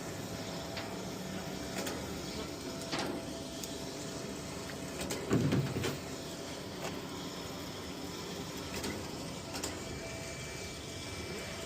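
Badlands 5000 lb electric winch running steadily with a motor whine while winching a pickup truck. A brief louder low sound comes about five and a half seconds in.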